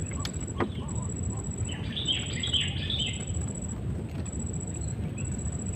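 A bird singing a quick run of chirps for about a second and a half, starting around two seconds in, over steady low background noise; two faint clicks come near the start.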